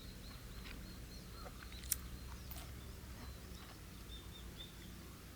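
Faint, short, high chirps repeating from a small bird, with one sharp click about two seconds in and a few softer clicks, over a low steady hum.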